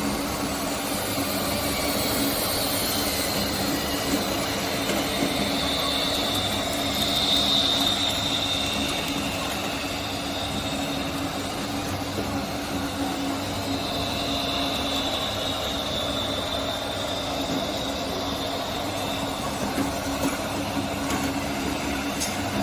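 Scale RC construction models running: small electric motors and gearboxes give a steady hum under a high whine that wavers and swells twice.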